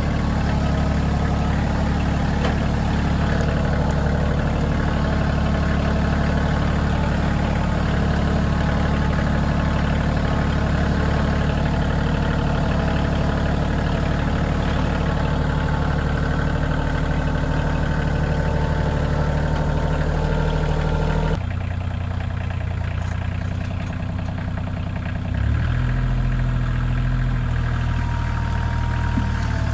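Kioti CK2610 compact tractor's three-cylinder diesel engine running steadily. Its sound changes abruptly about two-thirds of the way through, and a few seconds later the revs step up to a higher note.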